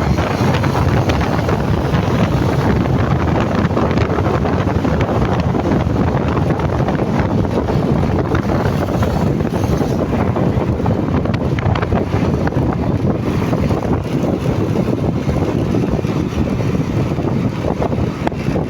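Wind rushing over the microphone of a moving motorcycle, with engine and road noise underneath, steady and loud.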